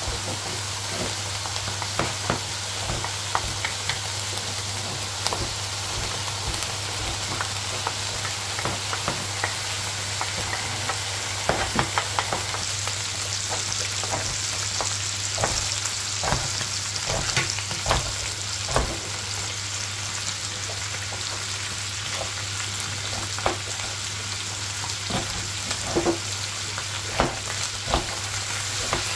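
Diced beef with onions sizzling steadily in a hot electric skillet, with a wooden spoon clicking and scraping against the pan as it is stirred.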